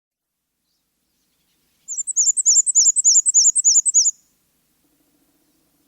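A small songbird singing one quick phrase of about a dozen high, repeated chirping notes, lasting about two seconds and starting about two seconds in.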